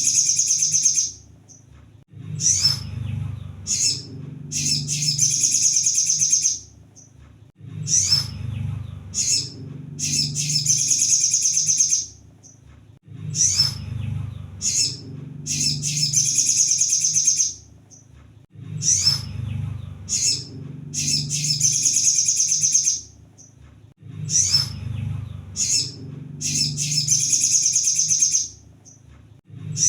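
Kolibri sogon sunbird song played as a looped lure recording: a few short high chirps, then a rapid, dense, high-pitched trill of about two seconds, the same phrase repeating every five or six seconds. A low hum rises and falls with each phrase.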